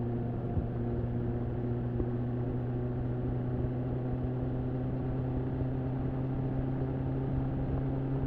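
BMW S1000RR's inline-four engine, breathing through an Akrapovič slip-on exhaust, idling steadily with an even, unchanging note.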